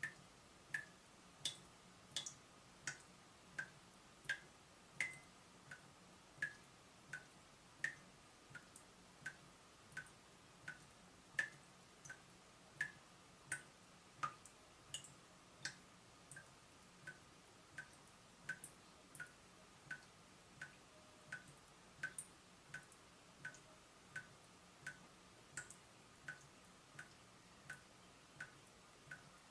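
Water dripping steadily from a leaking tap, about three drops every two seconds, each a short high plink.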